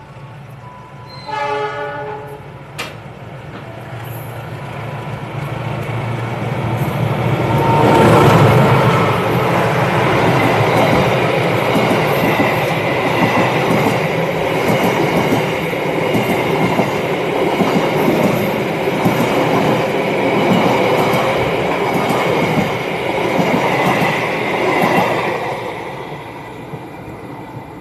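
A train sounds its horn briefly, then comes up and passes close by. Its wheels clatter rapidly over the rail joints for most of the time, and the sound fades near the end.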